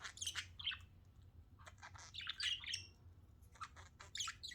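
Pet budgerigars chirping and chattering in short, high chirps, busiest about two seconds in.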